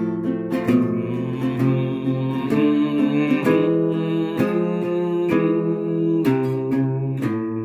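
Acoustic guitar playing a slow chord progression, each chord strummed and left to ring, changing about once a second.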